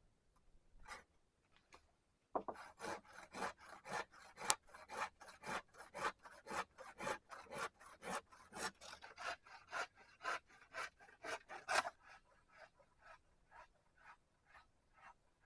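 A hand tool rasping on wood in a steady back-and-forth rhythm, about three strokes a second. The strokes start abruptly about two seconds in and turn fainter for the last few seconds.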